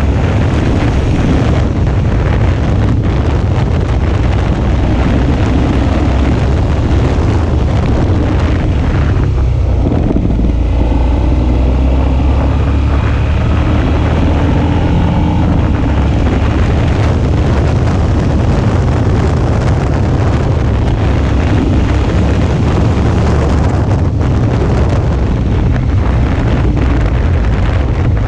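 Suzuki V-Strom 650's V-twin engine running on the move, with wind buffeting the microphone; the engine note shifts briefly about ten seconds in.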